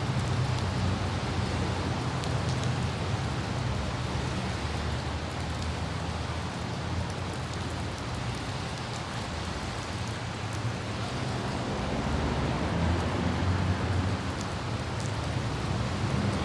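Light rain with scattered droplet ticks over the steady low rumble of a car driving, with wind. The rumble eases a little midway and swells again near the end.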